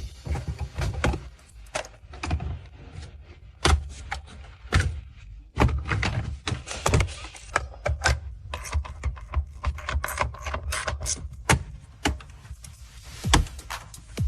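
Irregular workshop clatter: a rapid, uneven series of sharp metallic clinks and heavier thunks from tools and car parts being handled.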